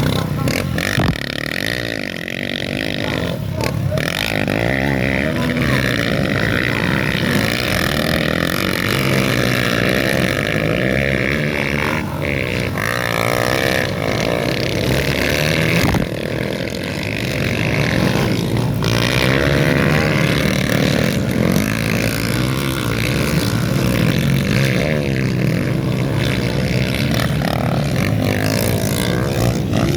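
Motorcycle engines of dirt bikes racing on a track, running continuously and rising and falling in pitch as the riders rev and ease off.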